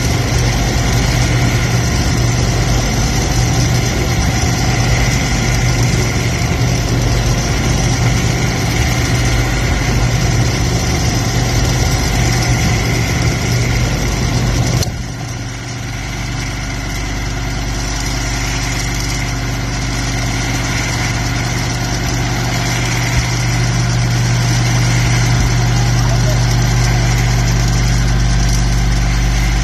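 Dishwasher pump running during the rinse/drain cycle: a steady low hum under a rushing wash of water. About fifteen seconds in the sound changes abruptly: the rushing drops away and a steady low hum carries on, growing slightly louder.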